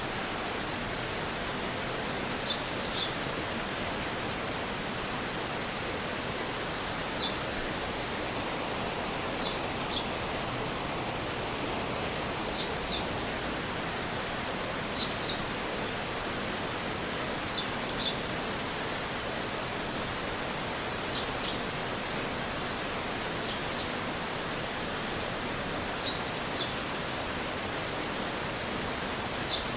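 Steady rushing of a stream's flowing water. A short, high call of two or three quick notes repeats about every two and a half to three seconds over it.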